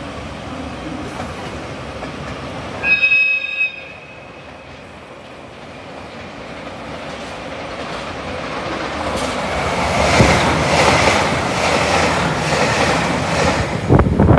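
A train horn sounds once, briefly, about three seconds in. Then a passing train approaches and goes by close, its running noise and wheel clack over the rail joints growing louder toward the end.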